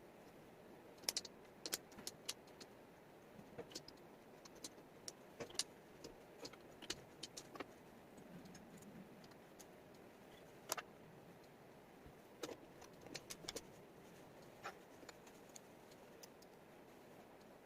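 Light, irregular clicks and taps of wooden jigsaw puzzle pieces being handled and set down on a table, over a faint steady hiss.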